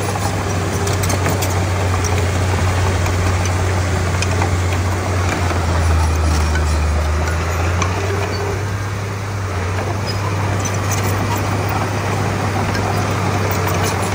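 Komatsu D31P bulldozer's diesel engine running steadily with a low drone, which deepens for about a second and a half around the middle.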